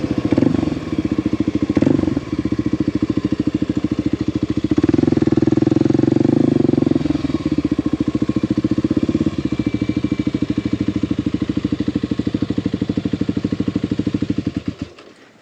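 Kawasaki KLX 300 single-cylinder four-stroke motorcycle engine running with a rapid, even beat of firing pulses. It swells louder for a couple of seconds about five seconds in, then fades out just before the end.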